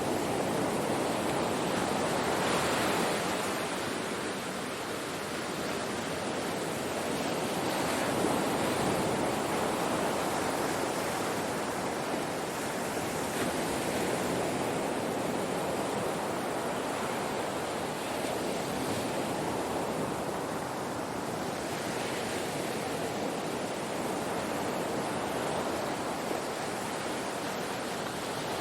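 Ocean waves breaking on a shore: a steady wash of surf with gentle swells in loudness as waves come in, strongest about two and eight seconds in.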